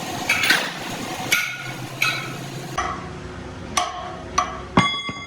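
A hammer striking metal about seven times at an uneven pace. Each blow rings briefly with a metallic tone.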